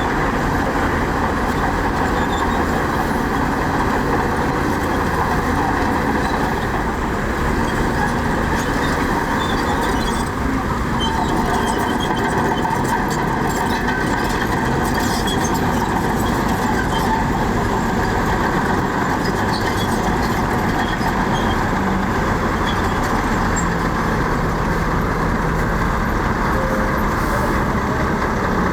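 Heavy diesel earthmoving machinery, a bulldozer and dump trucks, running steadily under load.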